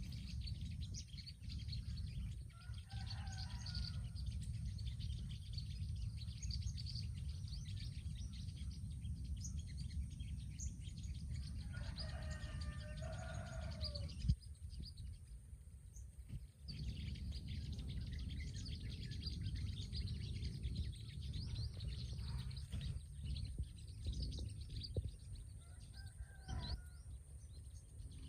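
Sunbirds chirping in quick, high, thin calls, with a few lower calls in between, over a steady low rumble; a single sharp knock about fourteen seconds in.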